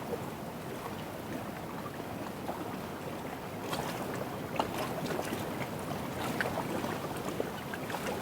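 Lake water lapping at the shore: a steady wash with scattered small clicks.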